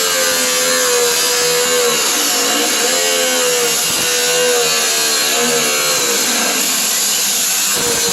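Angle grinder with a cut-off wheel cutting through the sheet steel of a pickup truck bed: a steady, loud hiss and whine whose pitch wavers as the disc loads up.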